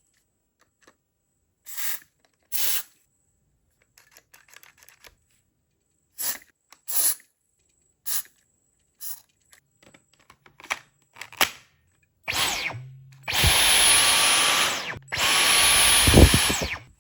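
Clicks and clatter of a Dyson V15 cordless stick vacuum being handled, then its motor starting with a high whine, running for about two seconds, stopping briefly and running again for about two seconds: the vacuum turning on again after the fix.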